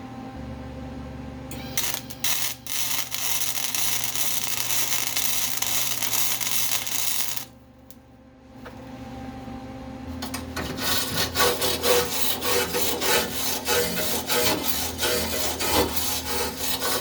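Flux-core wire welder arc crackling as a bead is run on thin sheet metal, stopping briefly about halfway and starting again with more uneven spitting and popping. The welding is going badly, with the low heat setting burning through the thin metal.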